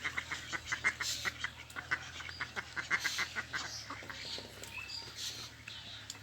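Several domestic ducks quacking in a rapid run of short calls, thinning out after about three and a half seconds.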